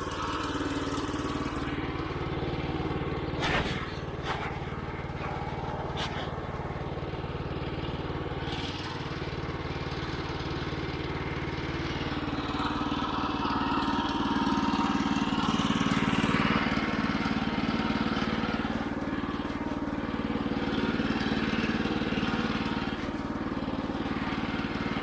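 Woodland Mills HM122 sawmill's 9.5 hp gas engine running steadily, with a few sharp clicks early on; it grows louder and noisier about halfway through.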